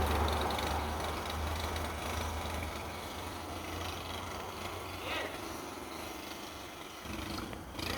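A large engine's low steady rumble that fades away over the first three seconds, leaving outdoor background noise with a brief sharp sound about five seconds in.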